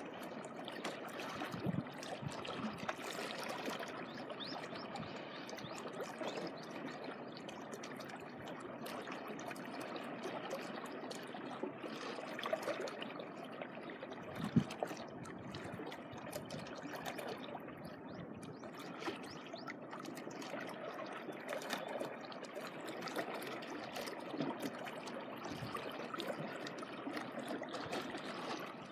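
Shallow seawater lapping and trickling at the shoreline: a steady wash full of small splashes and droplet sounds, with a slightly louder splash about halfway through.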